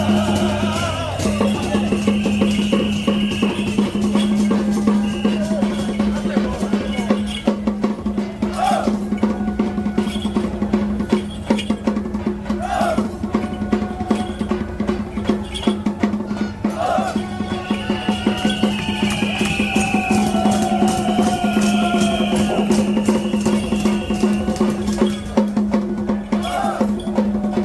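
Temple procession music: dense, rapid percussion over a steady low drone, with short melodic phrases coming back every few seconds.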